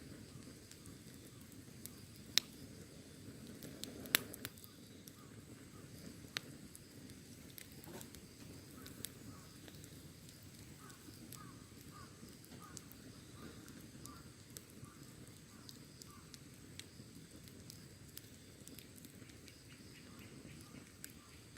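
Wood fire crackling: a low steady rush of the flames with sharp irregular pops and snaps of burning wood, the two loudest about two and a half and four seconds in.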